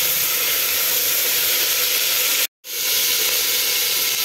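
Sliced onions and ginger-garlic paste sizzling in hot oil in an aluminium pressure cooker, a steady frying hiss. It breaks off for an instant about two and a half seconds in.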